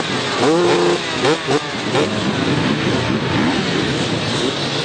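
Several motocross bike engines revving, with rising and falling revs in the first second and a half, then running together at a steady level.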